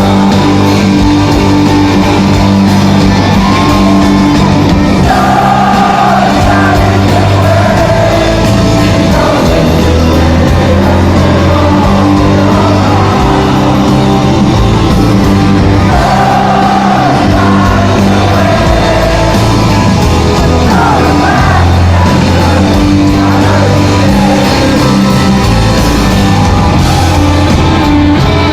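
Live rock band playing a song, with singing over guitars, bass and drums.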